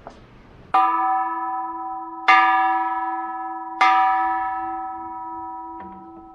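Buddhist temple bell struck three times, about a second and a half apart, each strike ringing on with a long, slowly fading tone of several pitches. A small click comes near the end.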